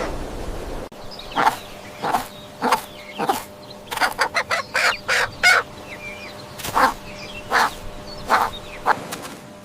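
Chickens clucking: a series of short, sharp calls about one or two a second, bunching into a quicker run of clucks midway.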